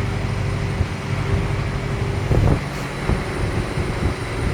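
Gradall machine's engine running steadily while the machine is worked, with a few short clunks about halfway through.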